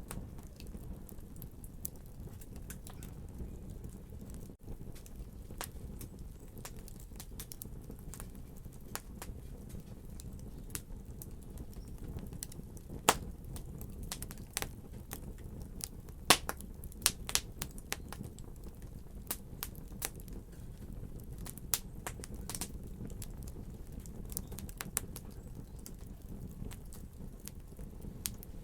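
Wood fire crackling in a fireplace: a steady low rumble of burning, with irregular sharp pops and snaps. A cluster of louder pops comes a little past the middle.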